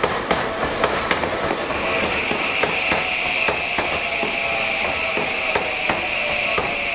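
Tokyu 6020 series electric train rolling slowly past, its wheels clicking irregularly over the rail joints and points. A steady high hiss joins about two seconds in.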